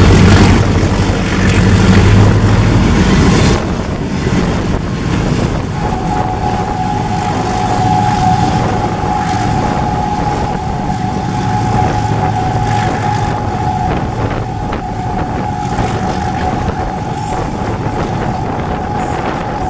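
Diesel trains running: a loud low engine rumble for the first few seconds drops away suddenly, and from about six seconds in a steady high-pitched tone is held over the running noise.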